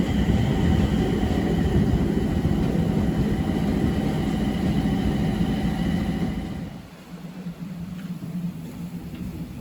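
Abukuma Express 8100 series electric train running: a steady rumble with several steady humming tones, dropping to a quieter rumble about seven seconds in.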